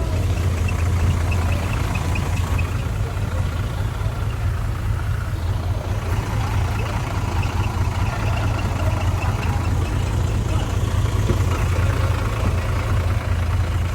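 Heavy diesel earthmoving engine running steadily, from a bulldozer or dump truck working the fill.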